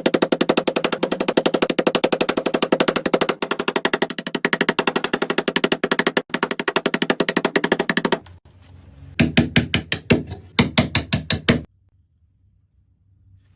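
Wood being worked with a tool in rapid, even strokes, about ten a second, for about eight seconds; after a short pause, a couple of seconds of slower strokes, then it stops.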